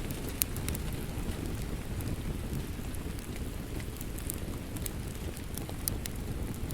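Fireplace crackling over steady rain: a constant rushing hiss of rain with frequent small, sharp crackles and pops from the burning wood.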